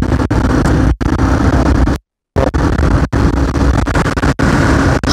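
Off-road trail motorcycle running along with heavy wind rumble on the helmet-camera microphone, the sound cutting out in several very short drop-outs and going fully silent for about a third of a second about two seconds in.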